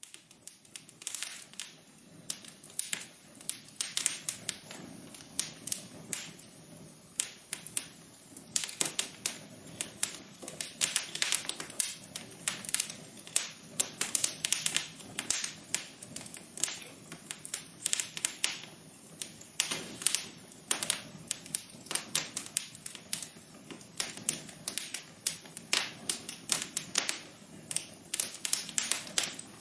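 Wood fire crackling: many irregular sharp pops and snaps, several a second, over a soft steady hiss of burning.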